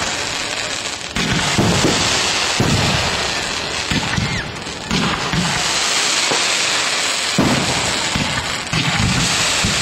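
Aerial firework shells bursting overhead one after another, with a loud boom every second or so over a steady noisy crackle.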